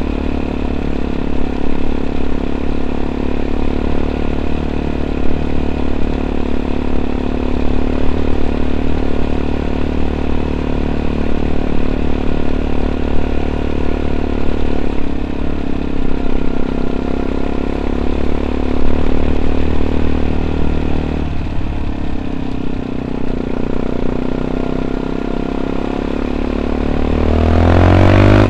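Yamaha WR 125 X single-cylinder four-stroke engine, fitted with an Arrow exhaust with dB killer, running steadily under way. A little over twenty seconds in, its note drops suddenly. Near the end it revs up with a rising pitch.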